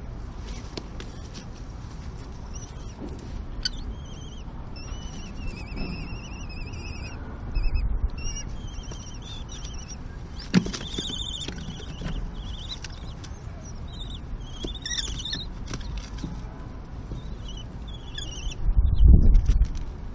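Common kestrel chicks giving high-pitched, wavering begging calls, over and over, during a feeding. A low thud comes about eight seconds in and a heavier one near the end.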